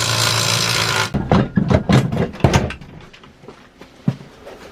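A power tool runs for about a second and stops, followed by a quick run of knocks and clunks of seat hardware being worked loose.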